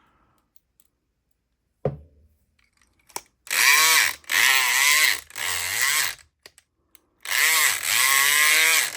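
SouthOrd E500XT electric pick gun buzzing as it is run against a lock: a knock about two seconds in, then three short bursts of about a second each and a longer run from about seven seconds, its pitch wavering.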